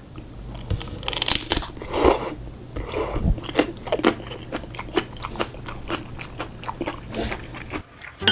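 Close-up crunching and chewing of a raw green chili pepper bitten off together with a mouthful of glass noodles: a run of crisp snaps, loudest about one and two seconds in, then steadier chewing crunches.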